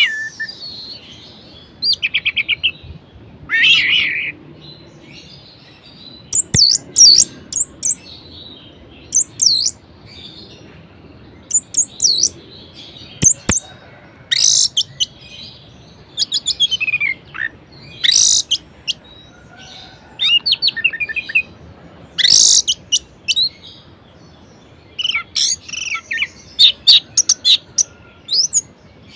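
Orange-headed thrush singing a varied song in short phrases of high whistles, rapid trills and falling glides, separated by brief pauses.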